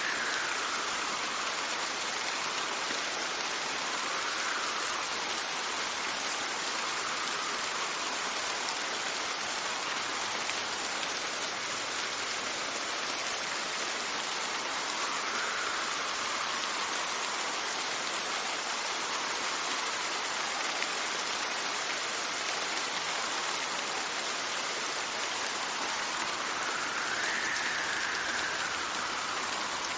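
Steady rain and wind, a continuous hiss whose brighter part swells and eases a few times.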